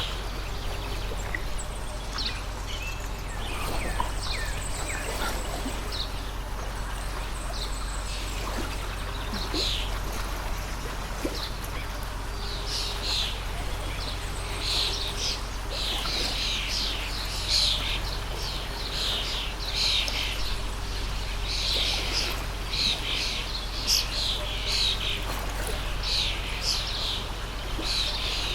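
Small birds chirping in quick, repeated bursts, thickest in the second half, over the steady rush of a running water stream.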